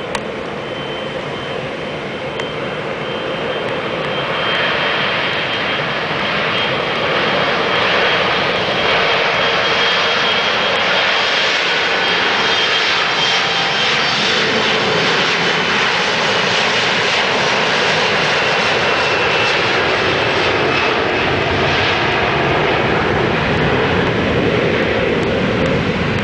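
Embraer E175 jet's twin GE CF34 turbofans at takeoff thrust: the engine noise builds about four seconds in, then holds as a loud, steady rush with a high fan whine that fades later on.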